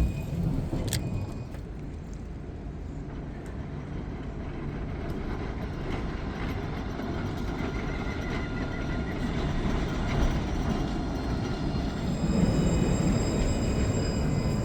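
A tram running on nearby tracks: a steady low rumble with a faint whine, growing louder toward the end.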